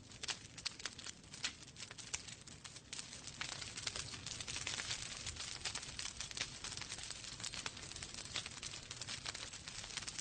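Fireplace fire crackling: irregular sharp pops and snaps over a soft hiss, the hiss swelling for a few seconds from about four seconds in.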